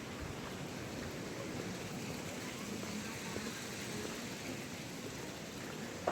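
Steady rush of running water, with one short knock near the end.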